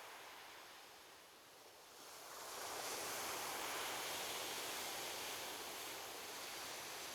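Ocean surf on a beach: the rush of water eases briefly, then a wave breaks and washes in about two seconds in, and the steady surf hiss holds after it.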